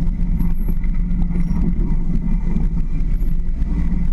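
Jeep Wrangler YJ engine running steadily while the vehicle drives off-road, a continuous low drone.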